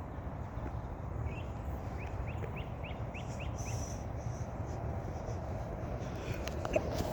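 A bird calling a quick run of about eight short, rising notes a second or so in, over a steady low rumble, with a couple of sharp clicks near the end.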